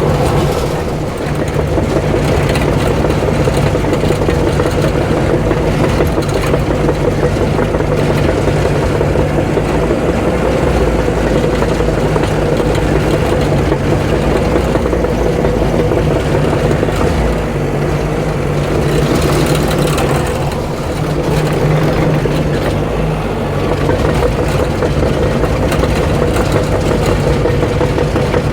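Diesel engine of a heavy earthmoving machine running steadily. Its sound eases briefly about a second in and again about twenty seconds in.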